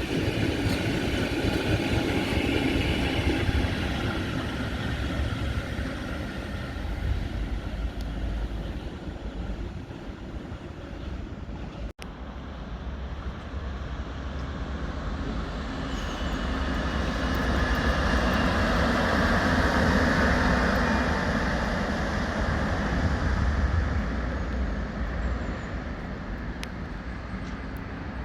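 Trains running on the tracks: a rumbling noise fades away, breaks off about twelve seconds in, then swells and fades again as another train passes.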